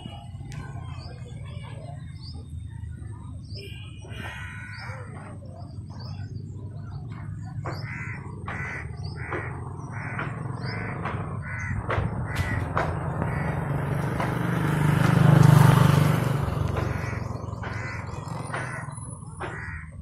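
Outdoor bird calls: small high chirps in the first few seconds, then a run of short, evenly repeated calls about two a second. A rushing noise swells to the loudest point about two thirds of the way through and then fades, over a steady low rumble.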